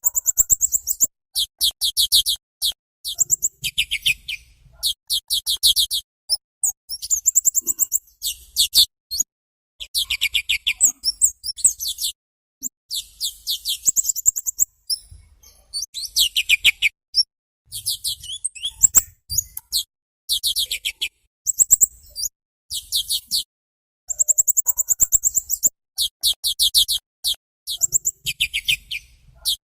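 Small songbird singing rapid trills of sharp, high repeated notes in bursts about a second long with short gaps between them; several bursts drop lower in pitch near their end.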